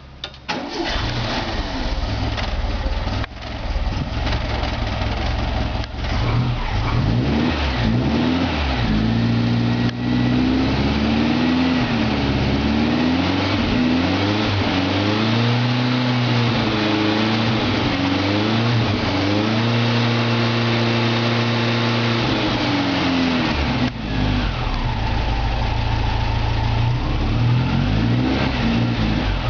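Air-cooled VW flat-four engine in a Nova kit car firing up for the first time in about 18 months, catching right at the start and stumbling a couple of times before running. It is then blipped up and down repeatedly, held at higher revs for a few seconds, and settles to a steady idle near the end.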